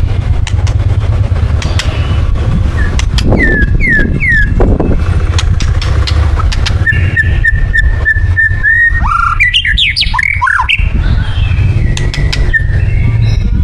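White-rumped shama singing: three quick down-slurred whistles, then a long run of rapid repeated chips and a burst of varied warbled notes, with more chips near the end. A steady low rumble runs underneath.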